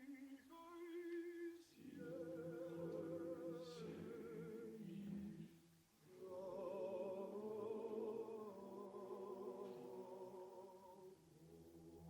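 Men's choir singing a Russian song a cappella: several voices in harmony with vibrato hold long notes, with a brief break between phrases about six seconds in.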